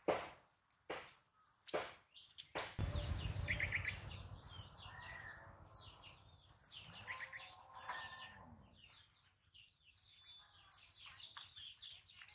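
Small birds chirping and calling over and over, with a few sharp crunching footsteps on dry leaf litter in the first couple of seconds and a low rumble for a second or two after.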